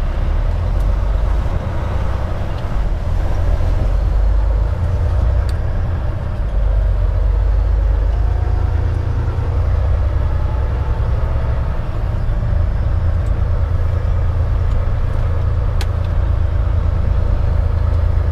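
Semi truck driving on the highway: a steady low rumble of engine and road noise.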